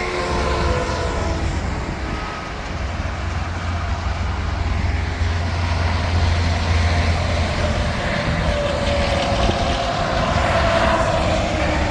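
Highway traffic with semi-trucks going by: a steady low rumble with tyre whine and engine drone. A vehicle swells louder near the end as it passes close.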